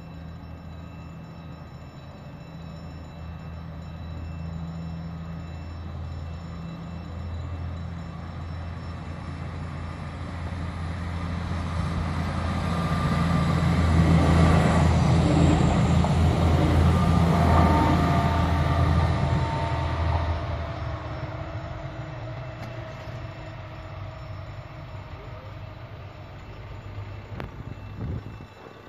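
Diesel regional train pulling away and passing close by: a steady low engine drone and wheel-on-rail rumble build up, are loudest around the middle, then fade as the train moves off.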